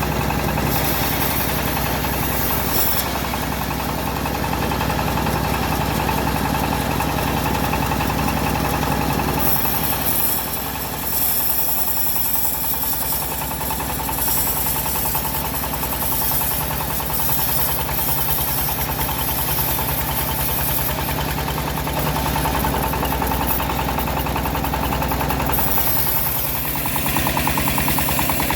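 Engine of a homemade bandsaw sawmill running steadily, with a brief dip in loudness about ten seconds in.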